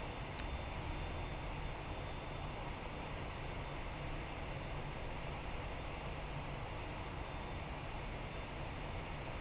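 Jet airliner engine noise, a steady rumble heard from a distance.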